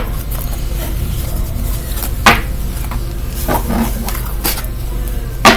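A few sharp knocks or clicks of small objects being handled and set down, two of them loud, over a steady low hum.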